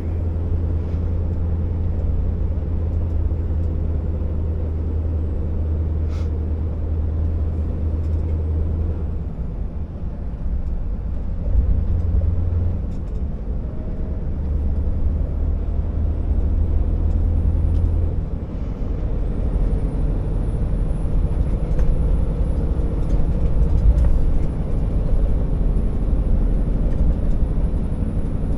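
Scania R650 timber truck's V8 diesel engine running steadily, its note dropping and picking up again a few times.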